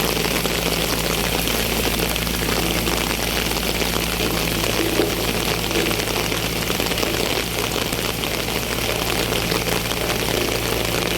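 Heavy rain falling steadily, over the continuous low hum of an idling engine.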